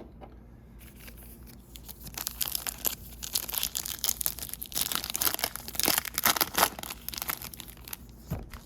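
Foil trading-card pack wrapper being torn open and crinkled in the hands, a dense crackling that starts about a second in and is loudest past the middle.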